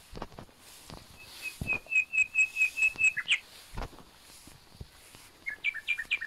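A bird singing: a quick run of about ten clear whistled notes on one high pitch, closing with a sharper note, then a shorter burst of similar notes near the end. Soft rustles and thumps of footsteps through grass sound underneath.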